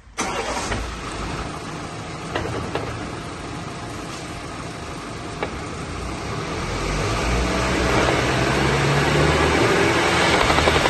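BMW 3 Series G20 xDrive rear differential humming as the car is driven: a steady drone with a low tone that grows louder about seven seconds in. The hum comes from a worn differential side bearing whose rollers and race have spalled.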